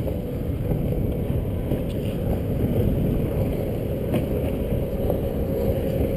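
Wind buffeting the microphone in a steady low rumble, with waves washing against an open canoe and a couple of faint knocks.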